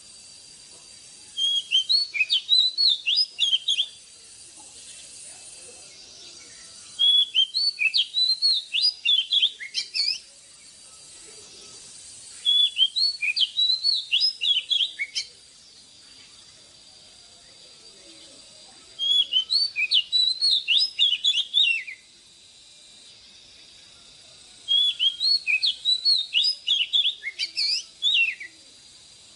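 Oriental magpie-robin singing: five phrases of quick, varied whistled notes, each lasting about three seconds, separated by pauses of about three seconds.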